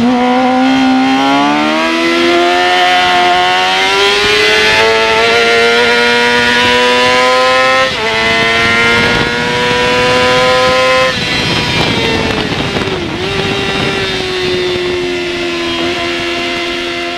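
Yamaha R6 inline-four race engine under hard acceleration, its pitch climbing slowly through a gear, with an upshift about eight seconds in, then climbing again. About eleven seconds in the throttle closes, the pitch dips and the engine settles to a steadier, lower note.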